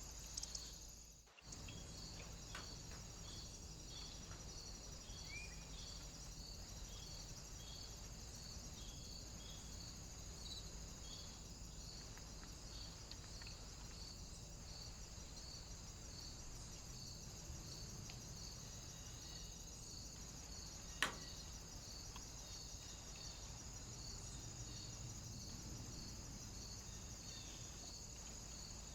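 A high, cricket-like chirp repeated evenly about one and a half times a second over a steady high hiss, with a single sharp click about 21 seconds in.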